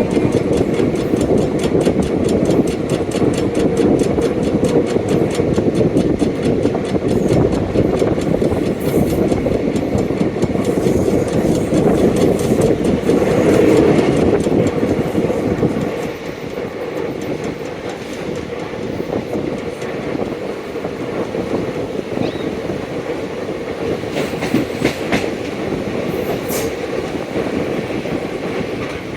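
Indian Railways express coach rolling along the track, its wheels giving a steady rattling clickety-clack over the rail joints. The noise drops a little quieter about halfway through.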